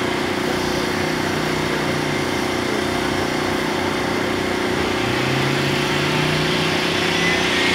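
Turbocharged Datsun 280Z's L28 straight-six and the car in the next lane idling while staging, a steady rough drone; a low note rises slightly about five seconds in.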